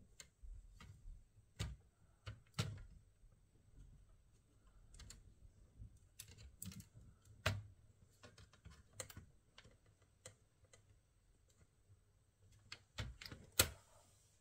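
Irregular sharp clicks and taps from hands working on a laptop, a few a second with pauses, the loudest near the end.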